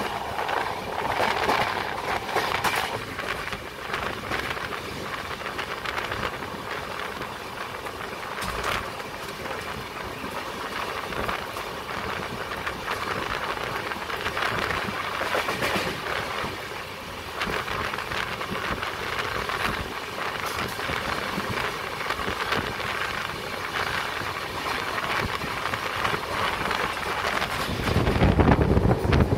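Passenger train running along the rails, heard from its open doorway: a steady rush of wheel and wind noise with an occasional clack. Near the end the noise turns louder and deeper as a train coach passes close alongside.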